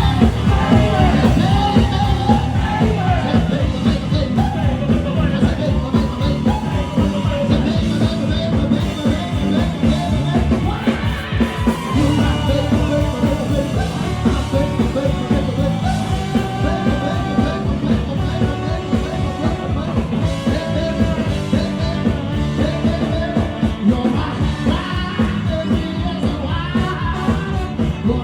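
Live band playing an up-tempo rock and roll song with a singer, its beat steady and driving.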